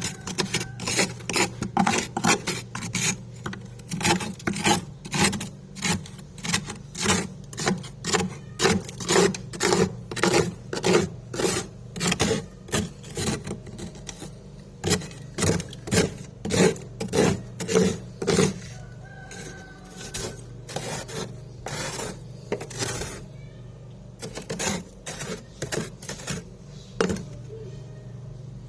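Chewing freezer frost: crisp, rapid crunching at about two crunches a second, thinning out after about two-thirds of the way through, over a steady low hum.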